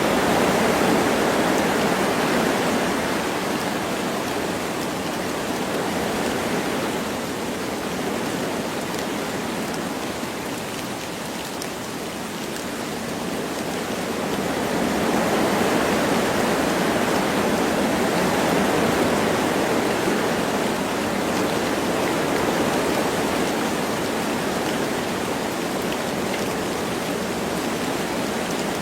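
Wind blowing through forest trees in slow gusts that swell and ease, with light rain falling.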